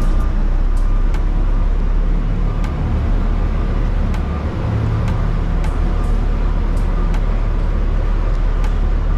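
Engine of heavy construction machinery running steadily, a continuous low rumble.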